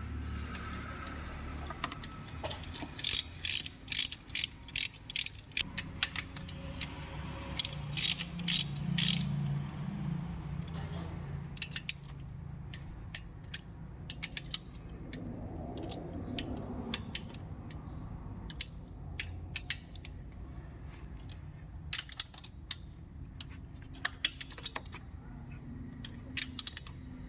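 Hand ratchet wrench clicking in short quick runs as bolts are worked on a Renault Kwid engine. The runs are densest about three and eight seconds in, then come only as scattered clicks.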